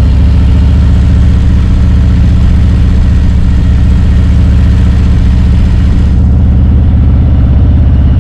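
Harley-Davidson Road Glide's V-twin engine running steadily at low road speed, heard from the bike as it is ridden. The deep, even exhaust note holds steady, with the airy high hiss of wind and road dropping away about six seconds in.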